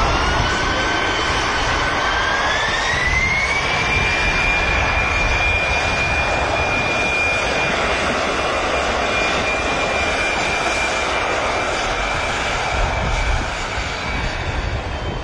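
Aircraft engines running loud, a turbine whine rising in pitch over the first few seconds as power comes up, then holding steady; the sound eases slightly near the end.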